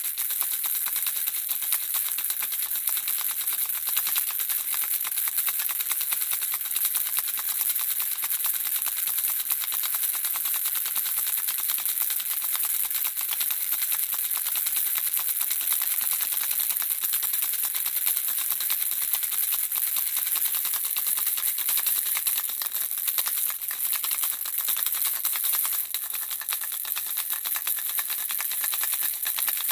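Handheld baby rattle shaken without pause: a dense, steady rattle of small pieces inside it, mostly high-pitched.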